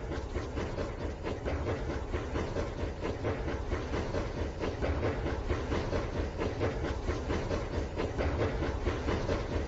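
Rail King remote-control toy train running on its track: a steady motor whir with rapid, continuous clicking of the wheels on the rails.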